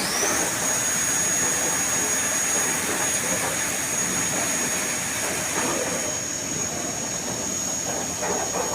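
CNC machine spindle spinning up: a high whine rises in pitch and then holds steady at speed, over a constant hiss.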